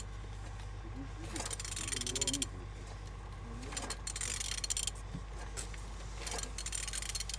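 An engine's crankshaft being turned over by hand with a wrench, in rasping strokes about every two and a half seconds. It turns freely, a sign the engine is not seized.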